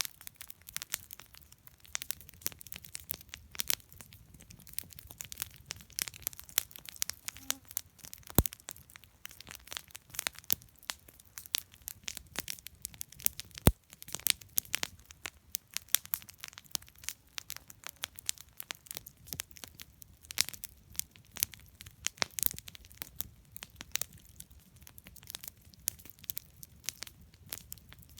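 Wood campfire burning, crackling with many irregular sharp pops and snaps; two especially loud cracks come about eight and fourteen seconds in.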